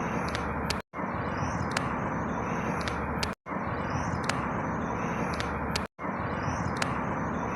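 Steady outdoor rushing noise with a few high bird chirps over it, a short recording looped about every two and a half seconds, with the sound cutting out briefly three times where the loop restarts.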